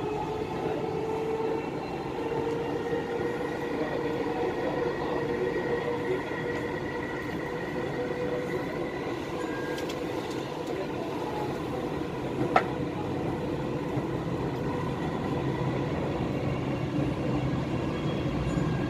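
Dubai Metro train running between stations, heard from inside the carriage: a steady rumble of wheels on rail under a steady motor whine, with one sharp click about twelve seconds in.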